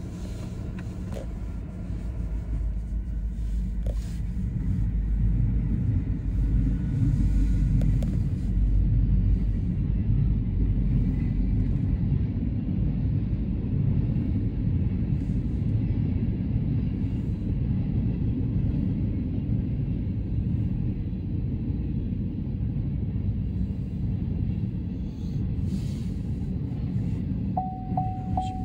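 Canadian National (CN) freight train running by: a steady low rumble that grows louder a few seconds in and stays strong. A short steady tone sounds near the end.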